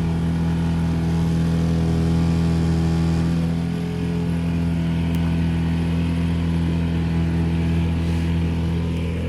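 Sailboat outboard motor running steadily at low speed, an even engine drone with no change in pitch.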